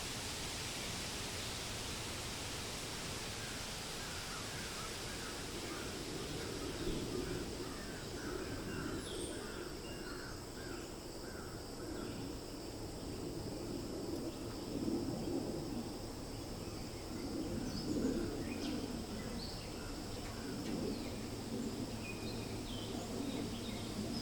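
Forest ambience: a steady wash of wind through leaves, with birds calling over it. About five seconds in, a bird gives a run of quick repeated calls, about two a second, for several seconds; lower calls and scattered short chirps follow.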